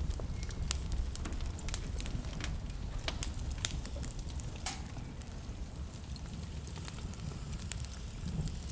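Wood fire burning in a fireplace: a steady low rumble of flames with irregular sharp crackles and pops, a few louder pops around three and four and a half seconds in.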